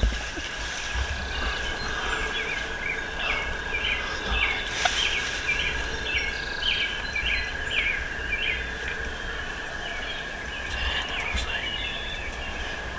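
A songbird singing at dawn: a long run of short repeated chirps, about two a second, tailing off after about nine seconds, over a steady high hum and a low rumble.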